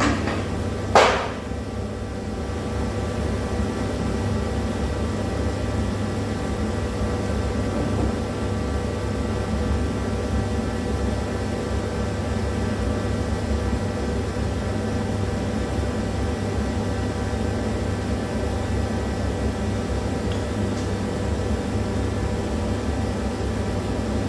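Steady mechanical hum with several constant tones, and a single sharp knock about a second in.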